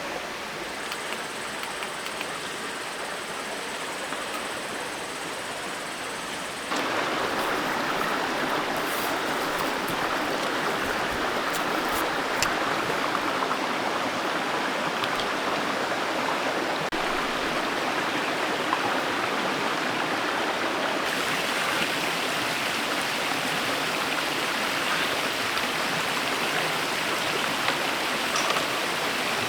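A valley stream flowing over rocks: a steady rush of water that jumps suddenly louder about seven seconds in. A faint thin high tone runs along under the water for the first few seconds.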